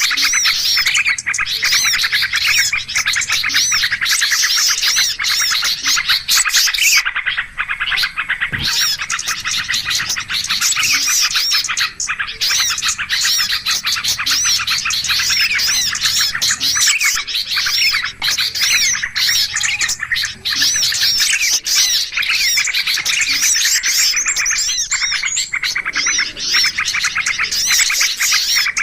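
Dense, continuous chorus of small songbirds chirping rapidly, a bird-luring (pikat) recording used to draw in wild birds.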